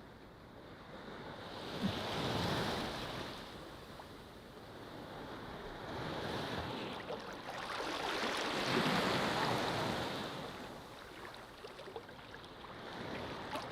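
Ocean waves breaking on a beach, the surf swelling twice, about two seconds in and more strongly around eight to ten seconds in, with quieter wash between.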